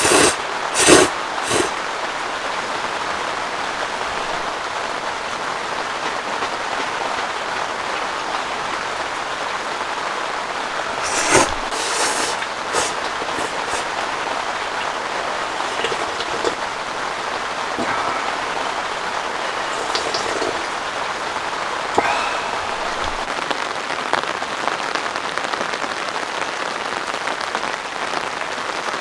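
Heavy rain falling steadily without a break, a dense hiss of raindrops. A few sharp louder taps stand out, a couple about a second in, a cluster around the middle, and one more a little later.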